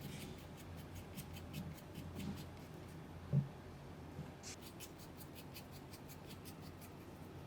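Quiet handling sounds: a run of light clicks and ticks with one soft knock about three and a half seconds in.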